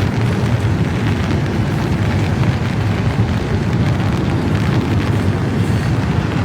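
Long freight train rolling slowly past, a steady low rumble.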